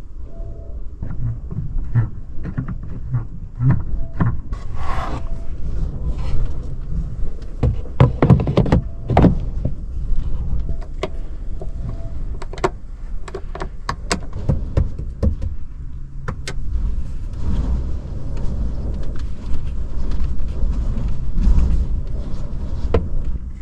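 Knocks, clicks and clatter of things being handled and set in place inside a parked car's cabin, over a steady low rumble.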